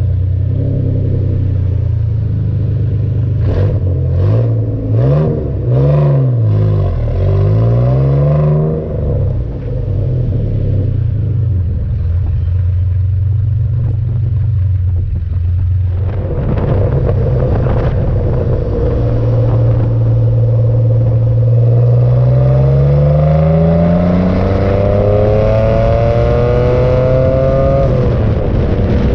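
1981 DeLorean DMC-12's PRV V6 with a sports exhaust, on the road. A few quick revs rise and fall in the first several seconds, then it runs steadily. It pulls up in pitch under acceleration and drops suddenly near the end at a gear change before rising again. Wind noise on the microphone runs through it.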